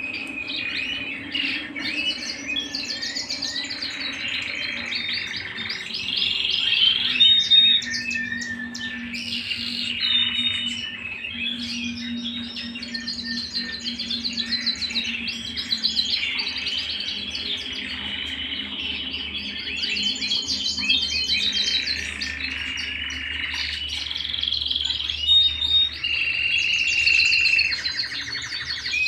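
Domestic canary singing a long continuous song of fast trills and rolls broken by clear whistled notes, with no real pause.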